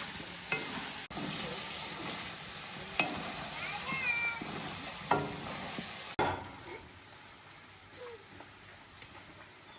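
Food sizzling in a hot pan while it is stirred, with several sharp knocks of the utensil against the pan. About six seconds in, the sound cuts to a much quieter background.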